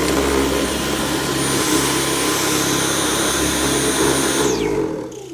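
Dyson V11 cordless stick vacuum running with a steady high whine, then winding down and stopping about four and a half seconds in.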